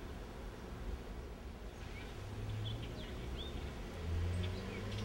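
Small birds chirping outdoors: scattered short, arched chirps repeating every second or so, over a steady low rumble.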